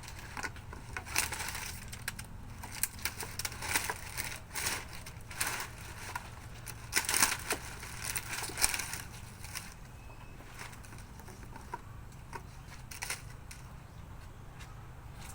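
Irregular crackling and crunching, many sharp clicks in quick succession, thinning out after about nine seconds, over a faint steady low hum.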